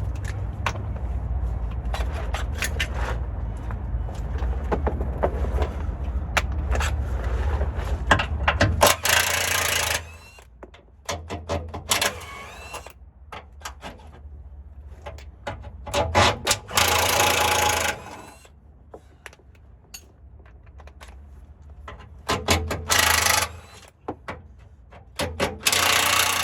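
Power impact wrench rattling in short bursts, four times, as bolts are run off during removal of a 4L60E automatic transmission, with tool and metal clicks between. For the first nine seconds there is a low steady rumble with scattered clicks.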